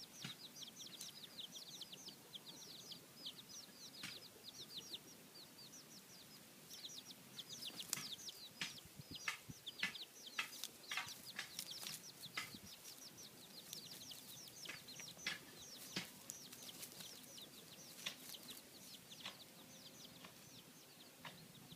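Baby chicks peeping: a steady stream of short, high cheeps that slide down in pitch, with the mother hen clucking softly and scattered short clicks.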